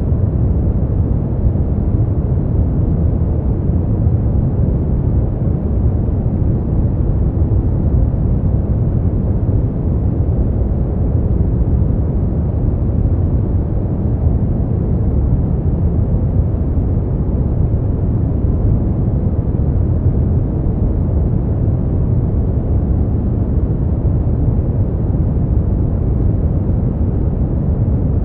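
Continuous noise track for sleep, weighted to the low end: a deep, even rumble with little hiss that never changes.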